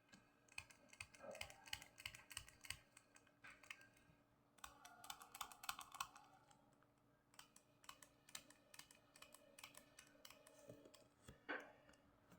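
Faint, rapid, irregular clicking and tapping in clusters, with a slightly louder knock near the end.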